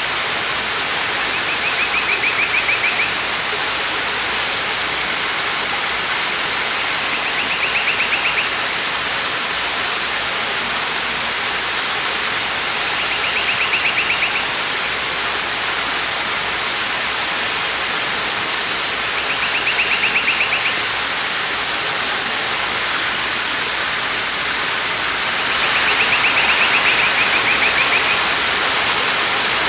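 Waterfall pouring, a steady rushing roar of water. A high, rapid trill sounds over it five times, about every six seconds, the last one longer.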